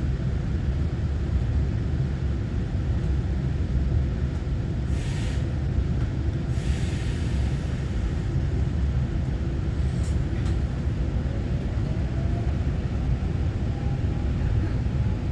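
Interior ride noise of a Taiwan Railway EMU900-series electric multiple unit running between stations: a steady low rumble of wheels on track. Two short hisses come about 5 and 7 seconds in, a sharp click near 10 seconds, and a faint rising whine over the last few seconds.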